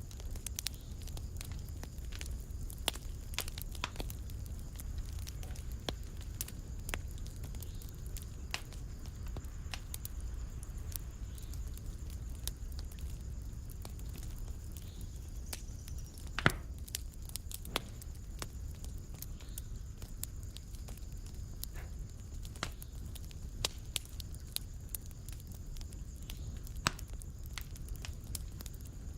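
Fireplace fire crackling: a steady low rumble of flames under frequent sharp pops and snaps, with one louder pop about midway.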